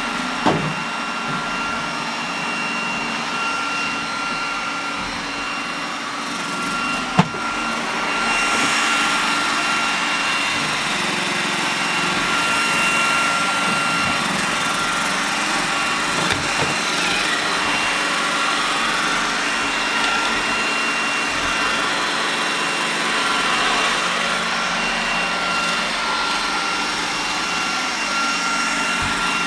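iRobot Roomba robot vacuum running, a steady high whine over a whooshing hiss that grows louder about eight seconds in. Two sharp knocks, near the start and at about seven seconds, as of the robot bumping into something.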